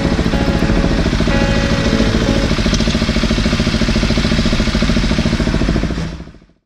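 Motorcycle engines idling side by side: the Suzuki GSR 600's inline-four under the rider, with a Husqvarna supermoto alongside. It is a steady, evenly pulsing run that fades away about six seconds in.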